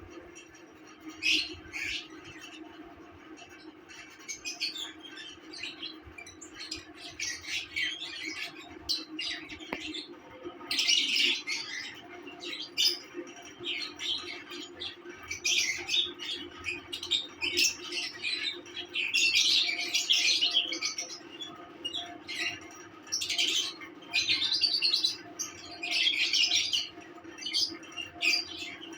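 Lovebirds chirping and squawking in many short, shrill calls, coming irregularly and more thickly in the second half, over a steady low hum.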